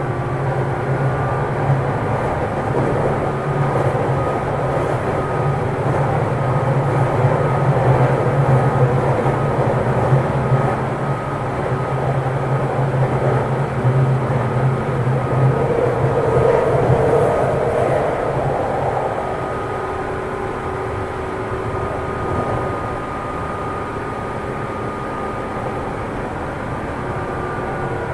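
Running sound of a JR 205-series electric multiple unit heard inside a motor car, with traction motors (externally fanned) and wheels on rail at speed. A strong low hum stays steady, then fades about two-thirds through, and the ride goes quieter after.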